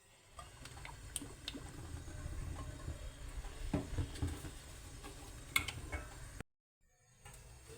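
Kitchen cooking sounds: scattered light clicks and knocks over a low rumble, with a brief cut to silence about six and a half seconds in.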